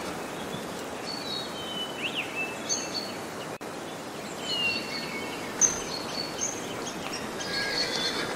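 Small birds chirping and singing in short high whistled notes over a steady outdoor background hiss.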